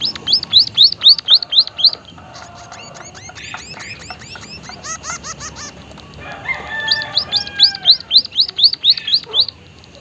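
White-headed munia (emprit haji) singing a trained song with canary-style phrases. Runs of loud, clear rising notes come about four a second, the first at the start and another in the second half, with softer, quicker twittering between.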